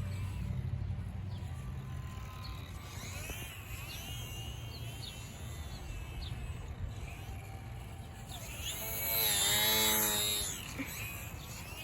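Small electric RC plane motor whining as it flies past, swelling and bending in pitch about nine seconds in, over birds chirping and a low outdoor rumble.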